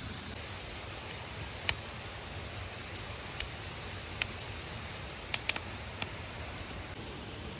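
Steady hiss with scattered sharp clicks or pops, three of them in quick succession a little past the middle.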